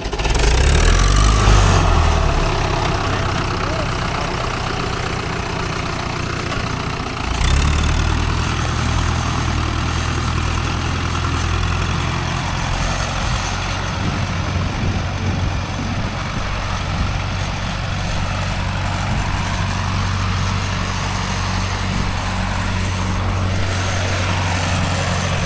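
An engine starts and settles into a steady idle, picking up speed with a step up in level about seven seconds in.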